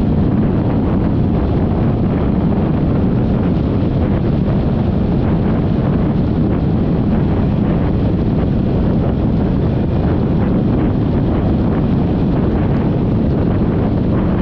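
Riding wind rushing over the GoPro microphone on a moving Yamaha XMAX 300 scooter: a steady, loud, low rumble with no break.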